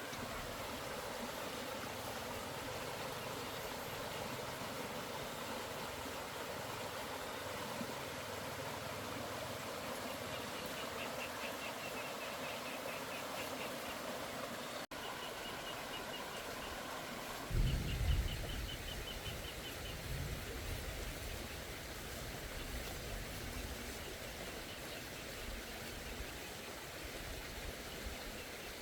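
Steady rushing of water in heavy rain, with faint rapid trilling above it midway. About two-thirds through come several low, loud rumbling thumps.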